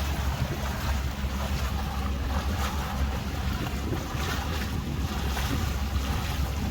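A tour boat's motor running steadily under way, with water rushing along the hull and wind buffeting the microphone.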